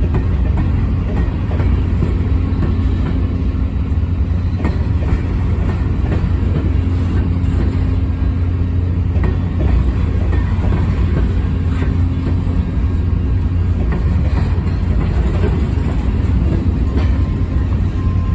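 Freight train rolling past with a steady low rumble and faint scattered wheel clicks. A faint, steady high tone comes in near the end.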